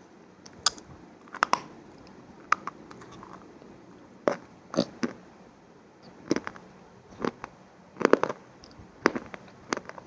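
Close-miked crunchy food being bitten and chewed: a dozen or so sharp crackling crunches at irregular intervals, some coming in quick pairs.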